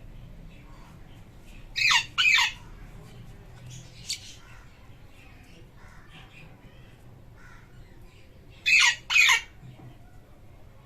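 Pet parrots calling: two pairs of loud, harsh squawks, one pair about 2 seconds in and one near the end, each call dropping in pitch at its end. A short, sharp chirp comes about 4 seconds in, with fainter chirps in between.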